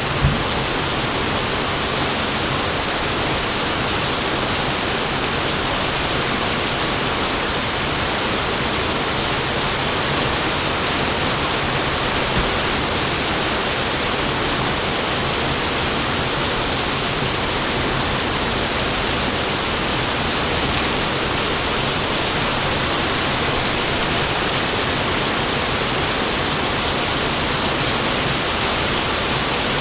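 Heavy rain falling steadily as an even hiss, with the last of a thunder rumble dying away at the very start.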